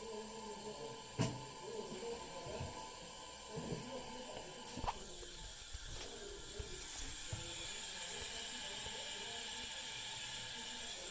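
2007 Kohler Wellworth toilet tank refilling: a steady hiss of water through the fill valve, filling slowly. There are two short knocks, the second about five seconds in, after which the hiss grows brighter.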